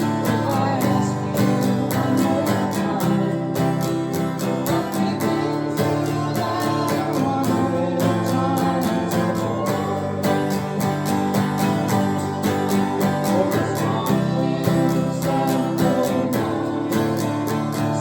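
Acoustic guitar strummed in a steady rhythm, playing a country-folk song.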